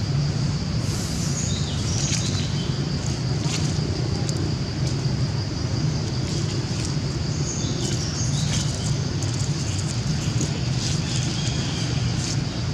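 Outdoor ambience: a steady low rumble with a thin high hiss, and a few bird chirps about a second in and again later.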